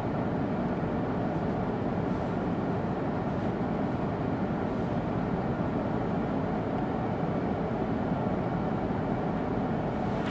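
Steady running noise of an E2 series Shinkansen, heard from inside a passenger car.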